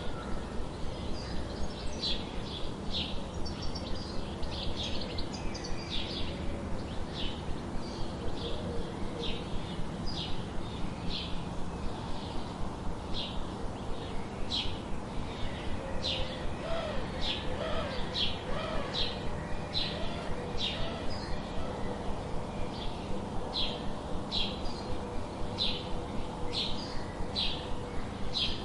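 Birdsong: short, high chirps repeated steadily, about one to two a second. A few fainter, lower wavering calls come in around the middle.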